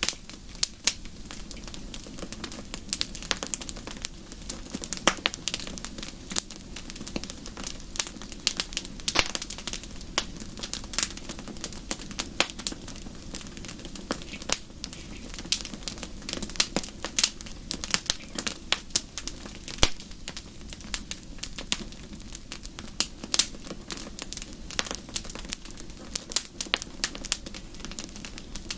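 Wood fire in a fireplace crackling, with irregular sharp pops and snaps several times a second over a steady low noise of the burning.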